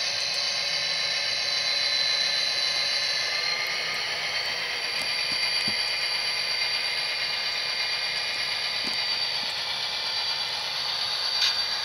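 Tsunami sound decoder in a model SD40-2 locomotive playing a steady EMD 645 diesel engine sound through the model's small speaker, with little bass and a few faint clicks.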